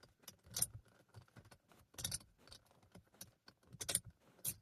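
Car keys jingling with scattered light clicks, a key being worked in a car that will not start; no engine is heard running.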